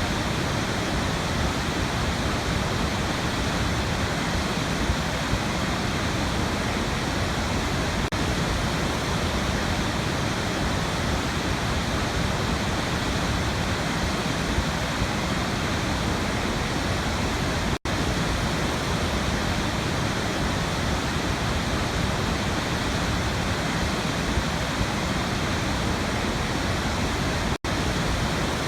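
Waterfall rushing in a steady, even roar of falling water. The sound cuts out for an instant twice, about two-thirds of the way in and near the end.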